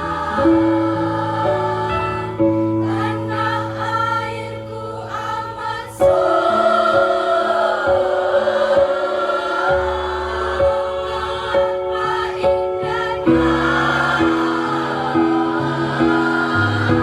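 Student choir singing in sustained, held chords over instrumental accompaniment, growing suddenly louder about six seconds in.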